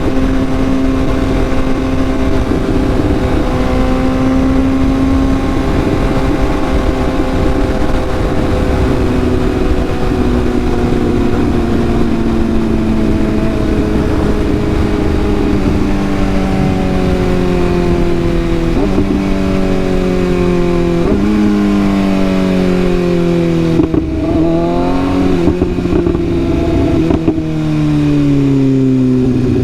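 Sport bike's inline-four engine heard while riding, over rushing wind noise. It holds a steady pitch at cruise for about the first half, then the pitch falls as the bike slows, with a few sudden jumps from gear changes near the end.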